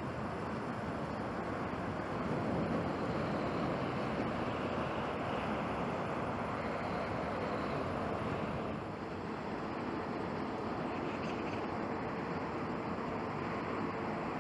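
Jet airliner engines at take-off thrust, a steady rushing noise. About nine seconds in the sound dips briefly and changes, and a faint steady hum comes in.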